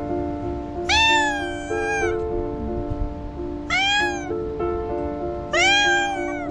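A cat meowing three times, long cries that rise and then fall in pitch, each lasting about half a second to a second, over background music of steady held notes.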